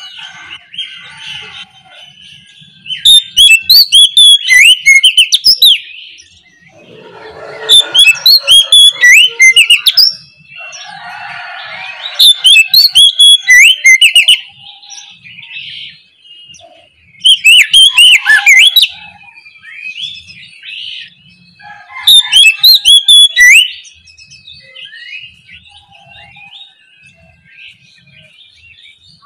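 Oriental magpie-robin (kacer) singing: about five loud bursts of rapid, varied whistled notes, each one to three seconds long and a few seconds apart, with softer calls in between.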